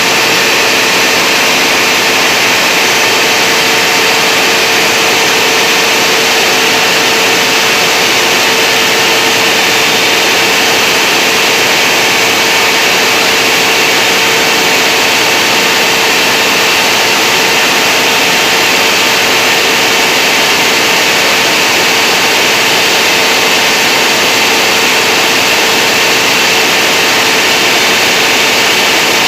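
Generator running loudly and steadily, a constant engine noise with a steady whine over it and no change in speed.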